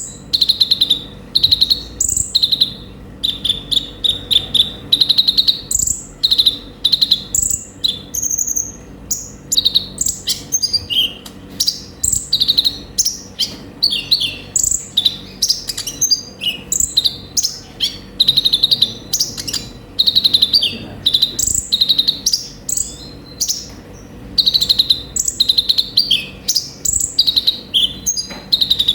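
Olive-backed sunbird (kolibri ninja) singing a fast, varied, full-volume song: rapid high trills alternating with sharp, even higher notes, in bursts about every second with hardly a pause.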